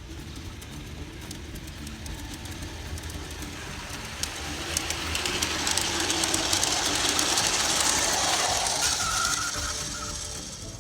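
G scale model train running on garden track, its wheels clicking over the rail joints. It grows louder as it comes close, is loudest about two thirds of the way in, and fades as it moves away.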